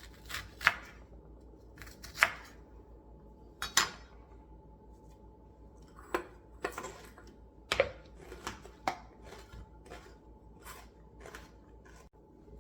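Kitchen knife chopping cabbage on a cutting board: a series of separate sharp strikes at an uneven pace, with a pause of about two seconds in the middle.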